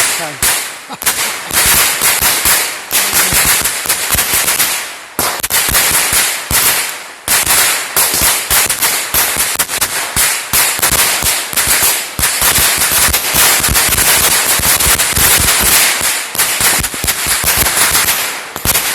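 A string of firecrackers going off in a rapid, unbroken rattle of sharp bangs, with brief lulls about a second in and around five and seven seconds.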